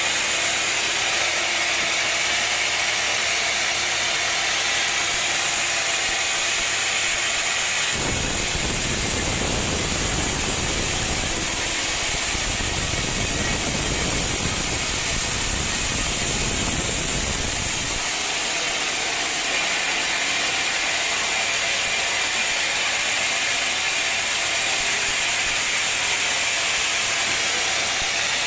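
Sawmill machinery running steadily with a loud hiss. For about ten seconds in the middle a deep rumble joins in.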